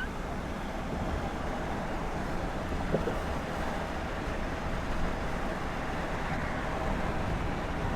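Steady road and engine rumble with a hiss, as heard inside a moving car.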